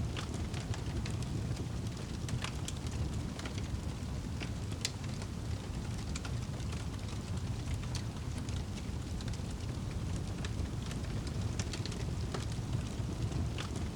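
Wood fire burning in a fireplace: irregular sharp crackles, about one a second, over a steady low rumble of flames.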